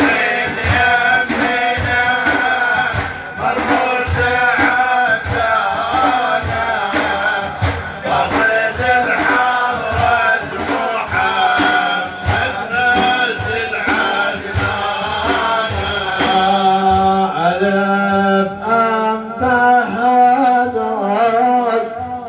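Sufi devotional praise song (madih) sung by male voices over a steady drum beat of about two strokes a second.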